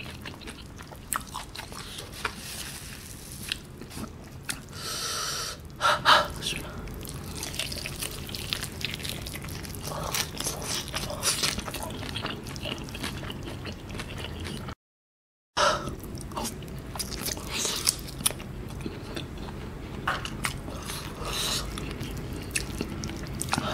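Close-miked chewing of sauce-coated fried chicken, with wet mouth clicks and the sticky tearing of the meat, in many small irregular bursts. The sound drops out completely for under a second about fifteen seconds in.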